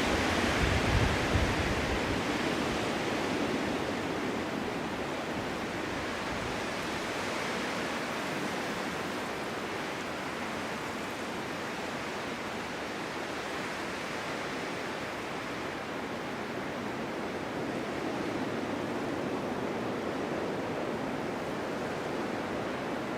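Winter wind blowing steadily through a snowstorm, a dense rushing hiss. A stronger gust about a second in adds a low rumble, then the wind settles to an even level.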